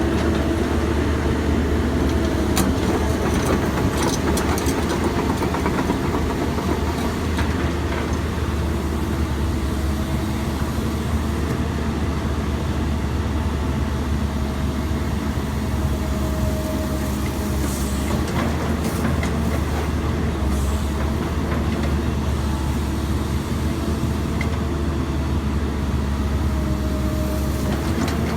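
Excavator diesel engine running steadily, with a thin whine that rises and falls in pitch as the hydraulics work and a few scattered knocks.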